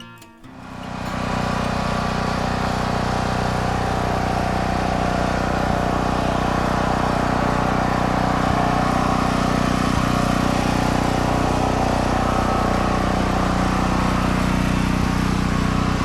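An engine running steadily, fading in about a second in.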